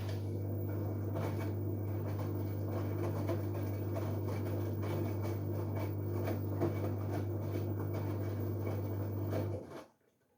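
LG Direct Drive 8.5 kg front-loading washing machine tumbling its drum during the wash: a steady low motor hum with clothes and water sloshing, which cuts off abruptly near the end as the drum stops.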